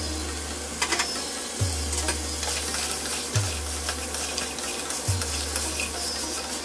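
A slotted wooden spatula stirs chicken and tomato frying in masala in a stainless steel pressure cooker: a steady sizzle, broken by frequent scrapes and knocks of the spatula against the pot.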